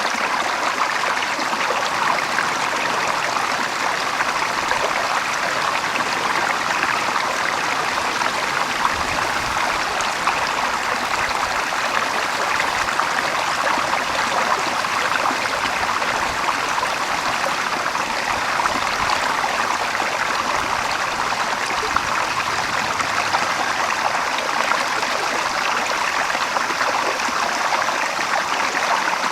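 Water flowing steadily, a continuous even rush like a small stream.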